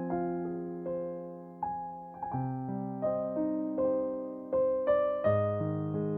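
Slow, soft piano music: single notes struck over sustained chords, each note ringing and fading.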